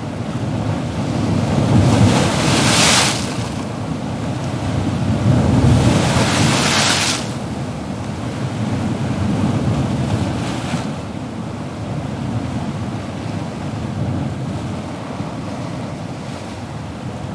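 Ocean waves breaking and washing in, in a steady roar of surf. Two loud surges of hissing spray come in the first half, and softer ones follow later.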